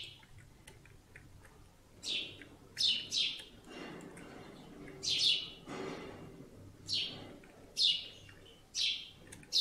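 A small bird chirping over and over in the background, in short chirps that fall in pitch, about one or two a second, starting about two seconds in.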